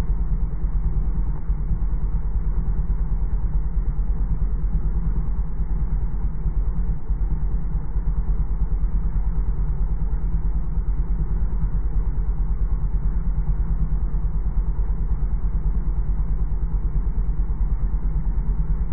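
A vehicle engine running steadily, with an even rapid pulse and no change in speed.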